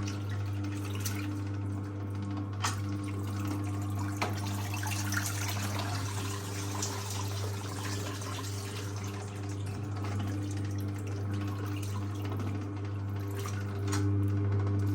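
1958 Hotpoint Empress washing machine's electric motor humming steadily as it drives the power wringer, with water running and dripping as wet towels are squeezed through the rollers. The hum grows louder near the end.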